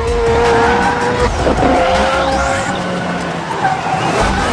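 Lamborghini Aventador's V12 engine revving hard, holding a high steady note that breaks off briefly about a second in and then holds again, over background music with a pulsing bass.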